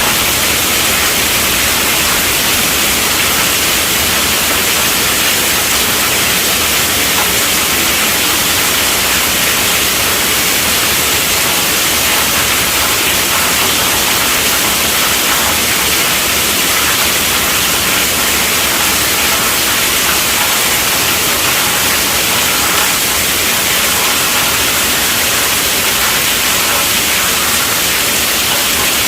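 Heavy rain falling on a tent roof: a steady, even rush of rain with no thunder.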